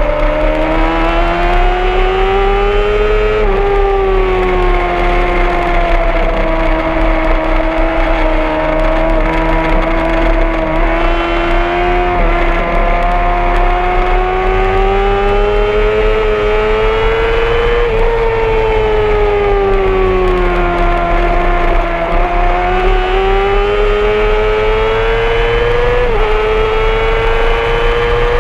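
Honda CBR600RR's inline-four engine running hard around the circuit, its pitch climbing slowly through long stretches and falling back, with sudden steps in pitch at gear changes.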